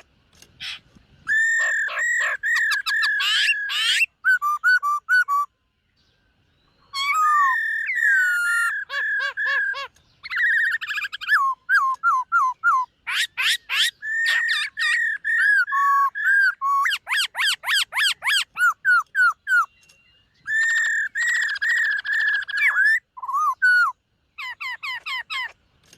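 Black-throated laughingthrush singing: loud, varied whistled phrases with quick runs of repeated notes and gliding calls, broken by short pauses.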